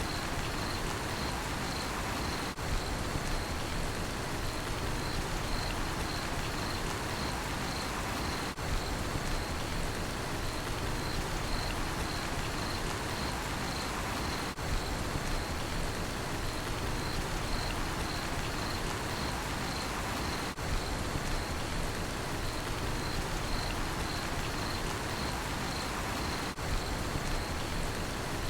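Steady rain falling, with a cricket chirping in a rapid, even pulse over it. The sound dips briefly about every six seconds.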